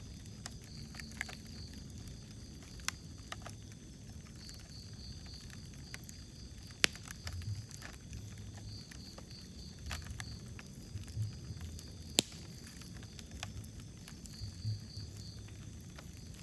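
Wood fire in a fireplace crackling: scattered sharp pops, with two louder snaps about seven and twelve seconds in, over a low steady rumble of the flames. Faint high-pitched chirps come in short runs every few seconds.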